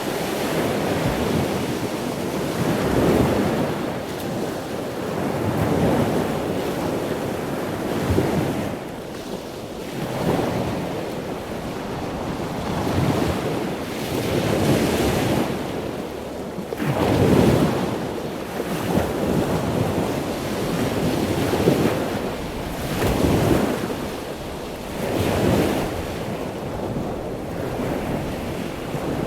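Ocean waves breaking and washing on a shore, the surf swelling and ebbing every few seconds, with some wind on the microphone.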